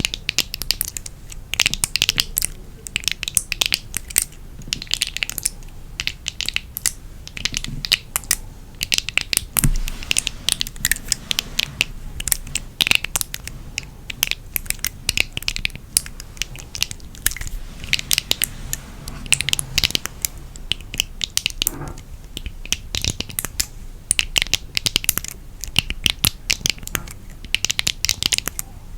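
Close-miked crisp crackling and scratching from an object being handled, a dense run of quick sharp clicks and rustles.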